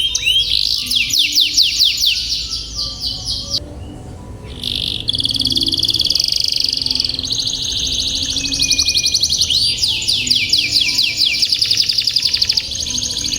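Domestic canary singing long, rapid rolling trills in fast repeated phrases, with a brief break about four seconds in.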